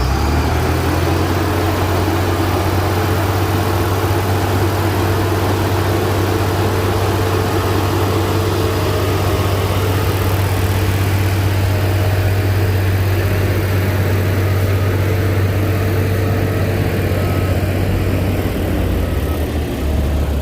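Heavy diesel engine of earthmoving machinery running steadily, its pitch dropping a little near the end. Faint reversing beeps come in near the end.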